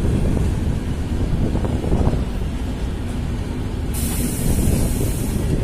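Indian Railways passenger trains running on side-by-side tracks: a steady low rumble of wheels on rail. About four seconds in, a sharp hiss starts suddenly and lasts about a second and a half before cutting off.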